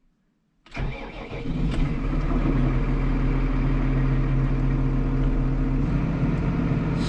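A loader tractor's diesel engine starting in the cold: it cranks briefly about a second in, catches almost at once and settles into a steady idle. It starts readily because its block heater has been plugged in since early morning and the glow plugs have preheated.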